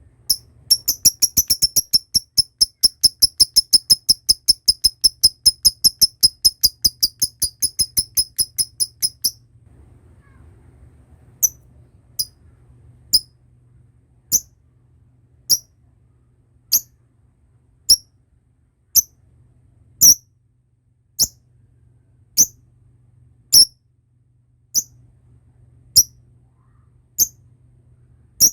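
Lovebird ngekek: a long, fast chattering trill of sharp high-pitched calls, about five a second for some eight seconds. It breaks off, and after a short pause single calls follow about once a second.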